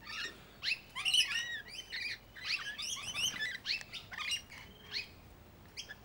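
Birds chirping and twittering, many short calls in quick succession, busiest in the first few seconds and thinning out near the end.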